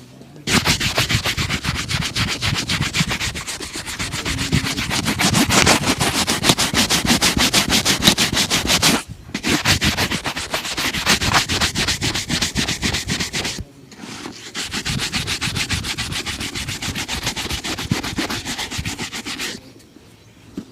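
Leather shoe being buffed with rapid back-and-forth strokes, in three long runs broken by short pauses about nine and thirteen and a half seconds in.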